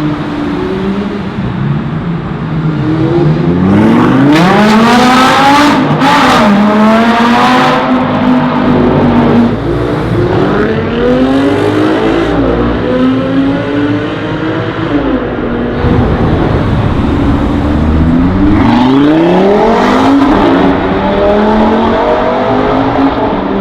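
Sports car engines accelerating hard, the pitch climbing in repeated pulls with a drop at each gear change. The loudest pull comes about four to eight seconds in.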